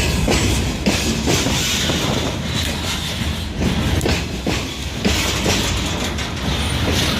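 A train rolling past close by, a steady rumble with its wheels clicking repeatedly over rail joints.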